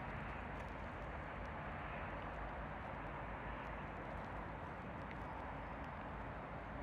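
Steady outdoor rushing noise with a low rumble beneath and a few faint small clicks, cutting off abruptly at the end.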